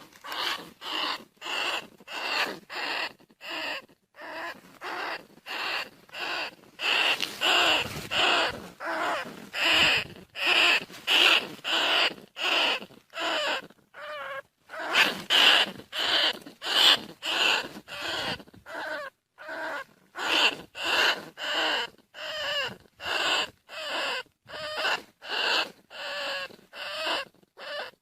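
Bandicoot rat calls repeated in a steady rhythm: short squeaky cries about two a second, with no pause.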